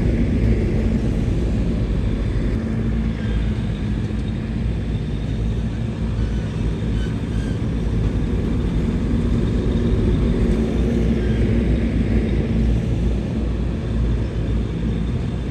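Diesel engine of heavy earthmoving machinery, a bulldozer or dump truck, running steadily with a continuous low rumble.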